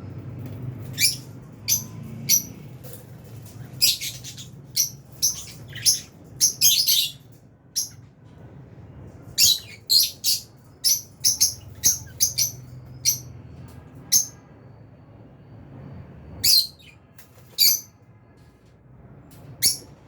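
A flock of lovebirds giving sharp, high-pitched chirps in quick clusters, with short pauses between the bursts.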